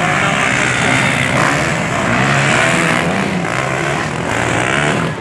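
Motocross dirt bike engines running hard, their pitch rising and falling with the throttle.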